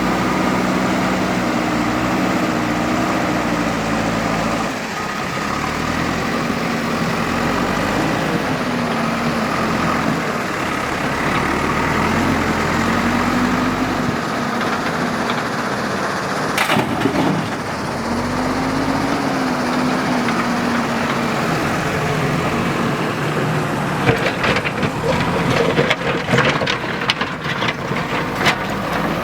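JCB 3DX backhoe loader's diesel engine running, its pitch rising and falling every few seconds as it works under load. Near the end come rapid clattering knocks.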